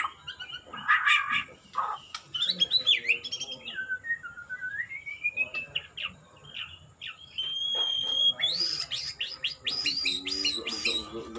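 White-rumped shama (murai batu) singing a varied song of clear whistled notes, slow pitch glides and quick chattering runs, with a long held whistle about eight seconds in followed by a fast string of notes.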